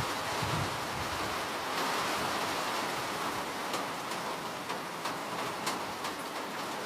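Steady rainfall: an even hiss of rain with a few sharper drop ticks through the second half, and a faint low rumble in the first second.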